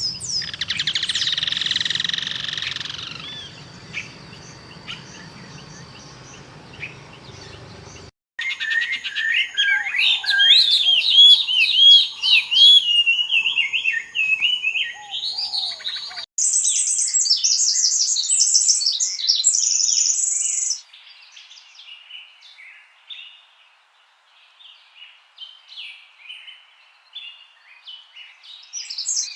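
Songbirds chirping and singing, in several spliced recordings that change abruptly twice. First comes a dense chorus of calls over a low background hum. Then rapid sweeping song phrases, then high, quickly repeated notes, and finally fainter scattered chirps.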